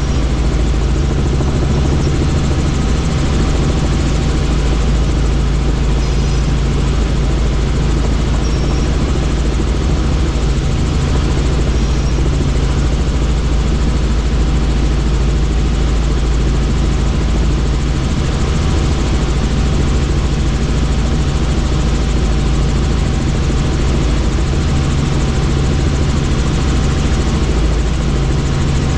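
Helicopter in steady flight: a constant, loud rotor and turbine noise with a steady low hum and an unchanging pitch.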